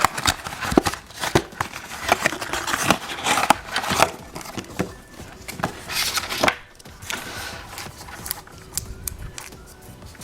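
A Kinder Joy egg's wrapper being unwrapped and handled: crinkling and tearing with many sharp clicks and crackles, growing quieter after about seven seconds.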